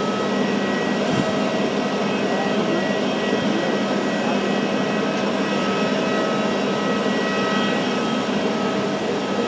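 Jet airliner engines running, a steady rush with a few constant whining tones and no rise or fall in pitch.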